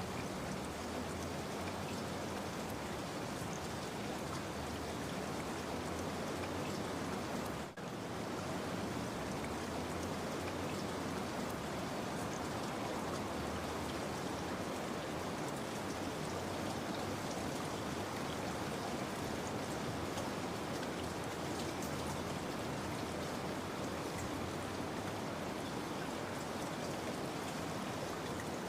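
Steady rain, an even hiss of falling water, with a momentary dip in level about eight seconds in.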